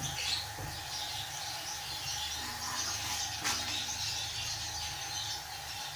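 Paratha frying on a cast-iron tawa: a soft, uneven sizzle of oil over a low steady hum, with a single tap about three and a half seconds in as it is turned.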